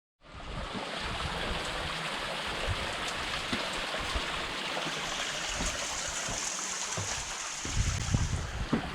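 Steady hiss of rain falling, with a few low wind buffets on the microphone near the end.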